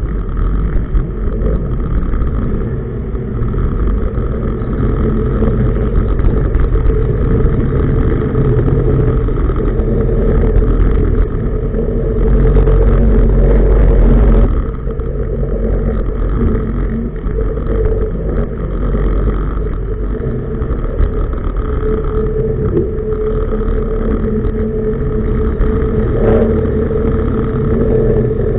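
Tugboat's diesel engine running steadily under way, a deep rumble with a steady hum over it. It gets louder for a couple of seconds near the middle, then drops back sharply.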